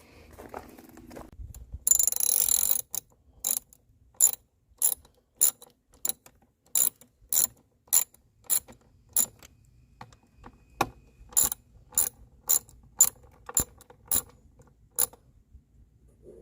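A ratchet clicking in a steady series of strokes, about one and a half a second, with a brief pause partway through. A short loud hiss comes about two seconds in, before the clicking starts.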